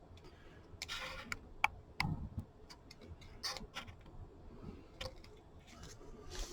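Faint, scattered small clicks and soft rustles of trading cards and plastic card holders being handled on a table.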